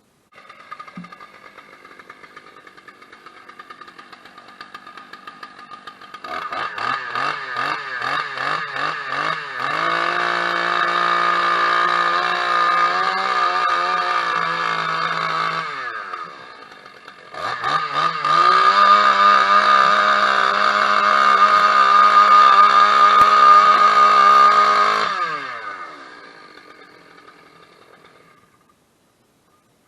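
Small petrol engine running fast with a high pitch. It revs up to full speed, drops back briefly about halfway through, revs up again, then slows and dies away near the end.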